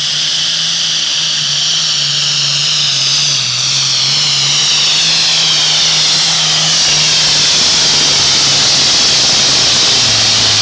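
Modified pulling tractor making a pull at full power: a loud, steady engine note with a strong high whine over it, growing slightly louder as the run goes on.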